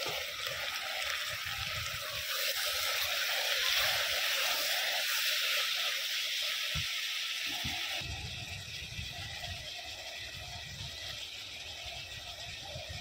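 Chopped tomatoes and onions sizzling in oil in an open aluminium pressure-cooker pot on a butane camping stove, a steady hiss that is loudest in the first half and drops suddenly about two-thirds of the way in.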